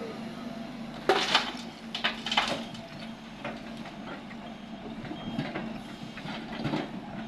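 Cat 330D excavator working: a steady diesel hum, with two loud scraping, rattling crashes about one and two seconds in and smaller clatters later, as quarry rock is loaded into a dump truck.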